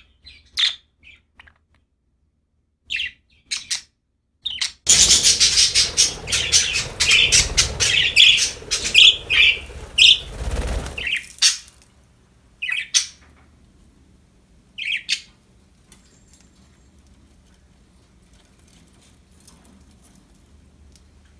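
Budgies chirping in short calls, with a loud, dense flurry of chirps over a rushing noise for about six seconds in the middle. After that come a couple of lone chirps, then only a faint background hum.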